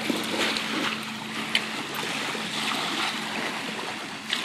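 Small waves lapping and washing on a beach shore, with a faint steady low hum underneath and a few light clicks, one sharper about a second and a half in.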